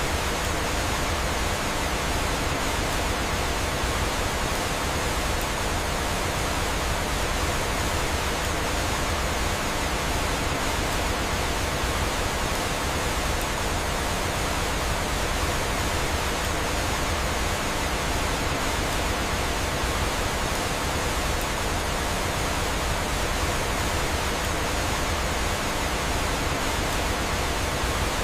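Steady rushing of flowing water, like a waterfall, an even hiss that does not change.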